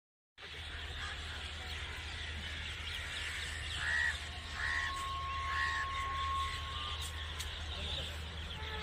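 Birds chirping and calling, with three short calls about a second apart a few seconds in, followed by a steady high tone that lasts a couple of seconds.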